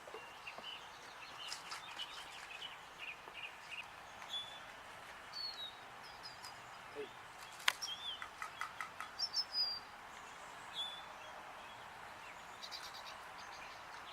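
Small songbirds chirping and calling, with short high chirps scattered throughout and a quick run of repeated notes about halfway through. A single sharp click comes just before that run.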